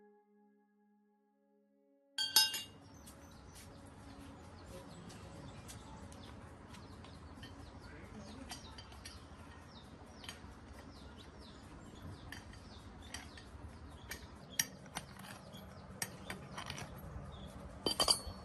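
Background music fades out. About two seconds in, a loud metallic clink starts the workshop sound: a steady low background noise with scattered light clinks and taps of metal parts and tools, and a few sharper clinks near the end.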